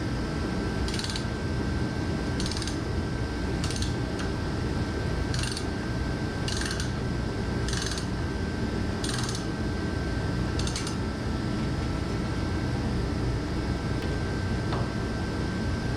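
Ratchet wrench turning the nut on a dump-truck tarp cable adjuster, drawing the pulley back to take slack out of the drive cable: about eight short ratcheting strokes, roughly one a second, stopping about 11 seconds in, over a steady low hum.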